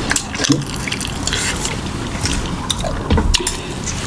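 Close-miked chewing and wet mouth sounds of someone eating, with scattered short smacks and clicks.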